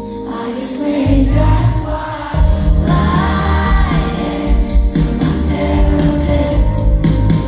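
A pop ballad performed live: a woman singing over a band with heavy bass and drums.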